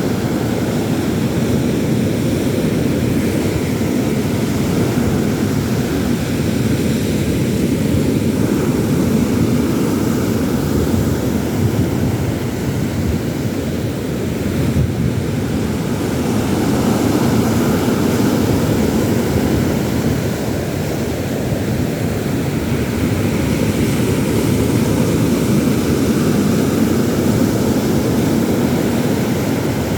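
A steady low roar of wind and sea surf, swelling and easing only slightly.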